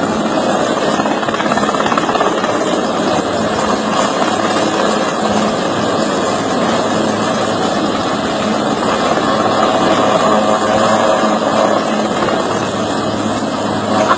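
Helicopter running steadily overhead, its rotor and engine making a loud, unbroken noise.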